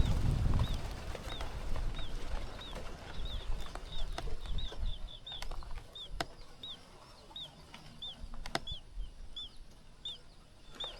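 A small bird chirping over and over: short, high, arched chirps about two a second, with a few sharp clicks in between.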